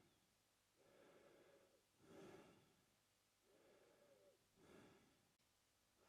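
A man breathing slowly and quietly through his mouth. There are two full breath cycles, each a softer, longer breath followed straight away by a louder, shorter one.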